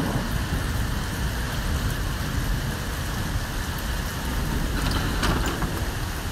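Heavy rain falling on a flooded street, a steady dense hiss with a strong low rumble. A brief louder noise about five seconds in.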